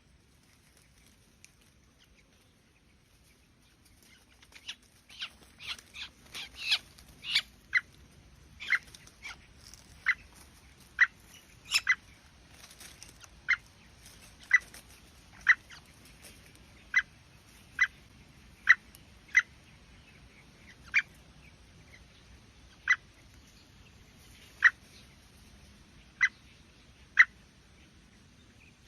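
A bird calling with short, sharp chirps. The calls start about four seconds in as a quick run, then settle to single calls roughly one a second.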